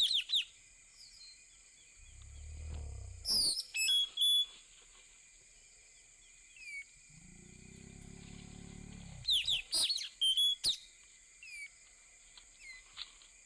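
Blue-rumped parrot (nuri tanau) giving sharp, high squawks in three short clusters: near the start, a few seconds in, and again past the middle. A steady high insect drone runs underneath, with two low rumbles of noise between the calls.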